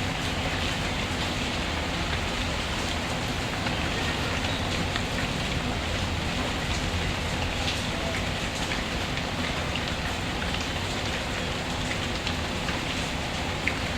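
Steady rain falling and pattering, with a low rumble beneath and a few faint clicks.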